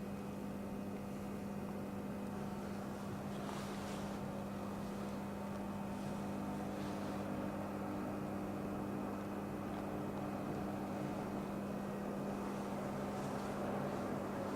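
Ungerer RM 3000/3/9 CNC industrial machine running under power: a steady mechanical hum with a constant low drone and fainter higher tones, unchanging throughout.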